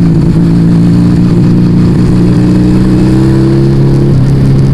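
Yamaha Vega ZR motorcycle engine running through an aftermarket Arrow exhaust while under way. The pitch climbs slowly, then drops about four seconds in.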